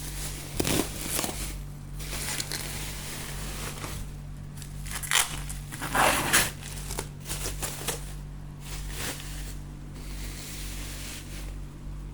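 Packaging being handled during unboxing: plastic wrap and packing material crinkling and rustling in irregular bursts, loudest about five and six seconds in, over a steady low hum.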